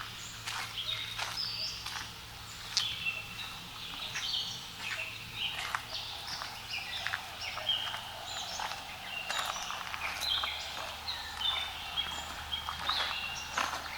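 Several birds chirping and calling together in quick, short high notes that overlap, with a few sharp clicks in between.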